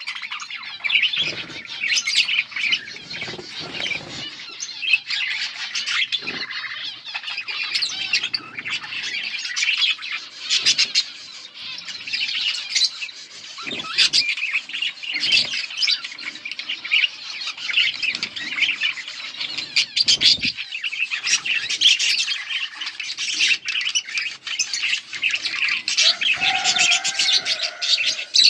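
A group of budgerigars chattering continuously, many overlapping chirps, warbles and squawks with sharp clicks, and a lower whistled note near the end.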